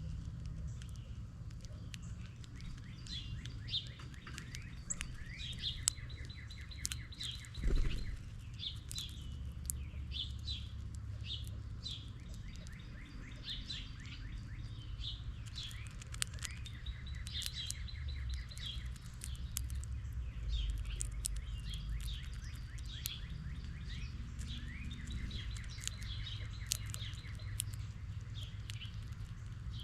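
Small songbirds chirping and trilling: many short, quick calls, often overlapping, keep going throughout. Under them runs a steady low rumble, and there is a brief thump about eight seconds in.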